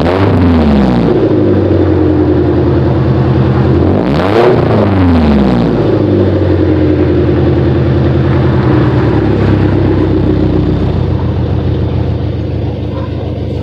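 Nissan KA24DE inline-four, naturally aspirated, through a custom 3-inch exhaust: the revs drop from a blip at the start, it is blipped again about four seconds in, then it settles into a steady idle.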